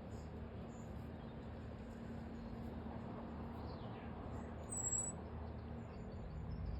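A single short, high-pitched bird call about five seconds in, over a steady low hum.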